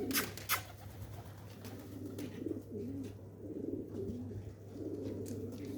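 Pigeon cooing in low, warbling phrases repeated several times, with two sharp clicks near the start over a steady low hum.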